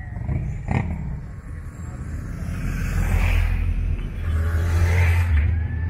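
Motorcycle engines rumbling as rally bikes ride off, the sound swelling twice as bikes pull past. There is a single sharp knock under a second in.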